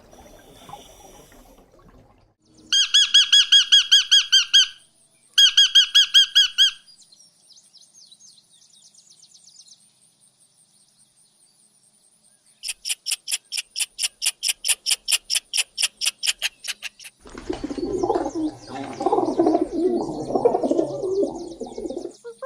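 A series of bird calls. Two loud bursts of rapid, pulsed trilling calls come a few seconds in, then faint high chirps, then a fast run of high repeated notes. Near the end a lower, rougher call takes over.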